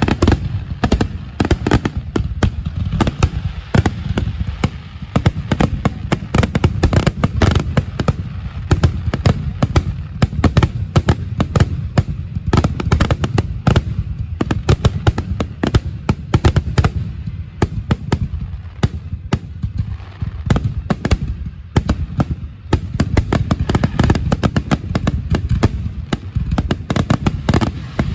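Fireworks finale: aerial shells bursting in a rapid, continuous barrage of overlapping bangs, several a second, without a pause.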